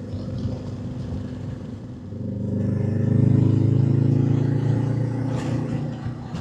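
Motorcycle engine running under way, its note swelling as the bike accelerates about two seconds in, then easing off gradually.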